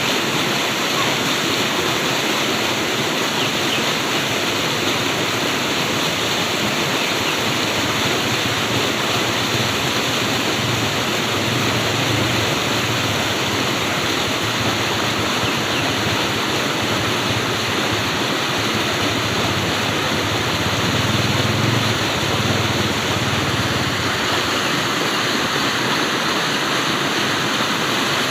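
Flowing water rushing steadily, with a faint low rumble underneath through the middle.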